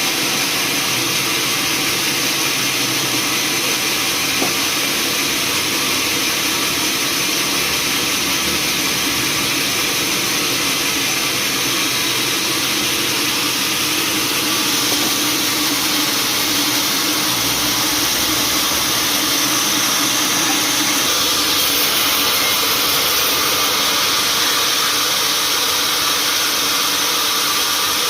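Sawmill machinery running steadily: a constant motor drone under a broad hiss, with no pauses or sharp impacts.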